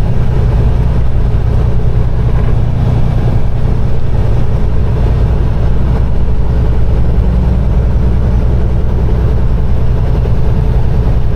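Peterbilt 389 semi truck's diesel engine running steadily at a low cruising speed, a constant deep drone heard from inside the cab.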